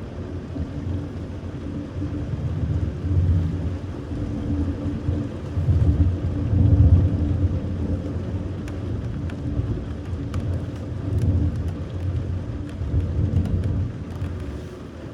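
Low rolling thunder that swells and fades several times, loudest about halfway through, over steady rain, with a few faint raindrop ticks.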